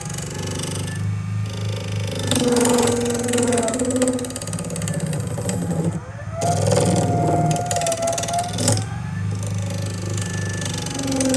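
Electric power tool motor running under load, its pitch dipping and rising several times.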